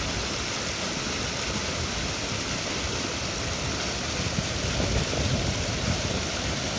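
Creek water running over a shallow run: a steady, even rush of flowing water.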